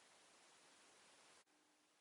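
Near silence: faint hiss of room tone, which drops slightly about one and a half seconds in.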